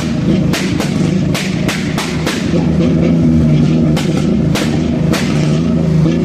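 Car engine running loudly at a steady pitch, with sharp cracks at irregular intervals, a few each second at times.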